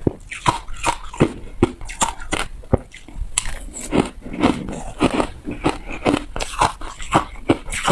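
Ice being bitten and crunched between the teeth, close to the microphone: a quick, even run of sharp crunches, about three a second.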